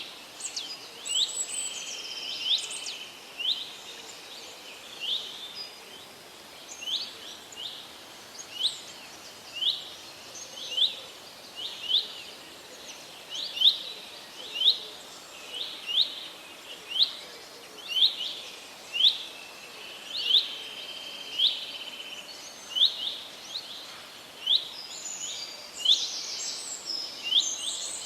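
Forest birdsong: one bird repeats a short rising chirp about once a second, with other birds calling now and then over a steady hiss. Several birds call together near the end.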